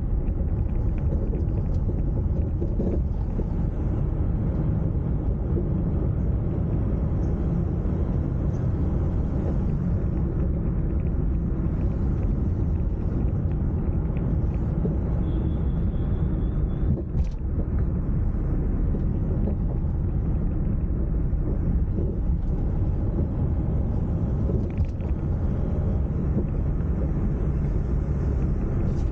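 Car driving on a village road: a steady low rumble of road and engine noise, with one brief knock a little past the middle.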